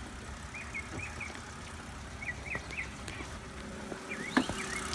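Small birds chirping in short runs of three or four quick notes, twice, then a few more notes near the end, over a low steady rumble; a single sharp knock about four seconds in.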